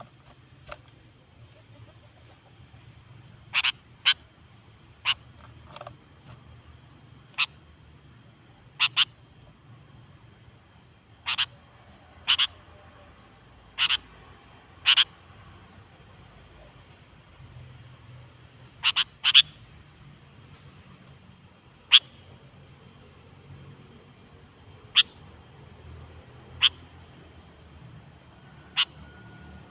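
Short, sharp animal calls, single or in quick pairs every second or few seconds, over a steady, rapidly pulsing insect trill.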